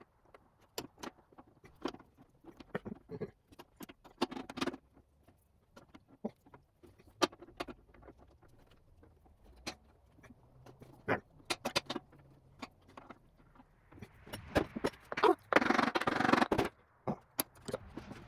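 Scattered metal clicks and knocks as Rockwell Delta drill press parts are handled and fitted back together, with a longer stretch of scraping and rattling about three-quarters of the way through.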